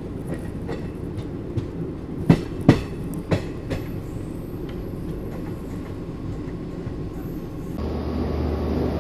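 Train running on the track: a steady rumble with a few sharp wheel clacks over rail joints between about two and three and a half seconds in. Near the end the sound changes abruptly to a steadier low hum that grows louder.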